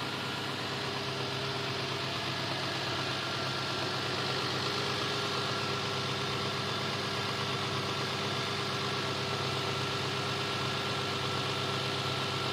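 A motor running steadily: an even low drone with a faint high whine above it, unchanging throughout.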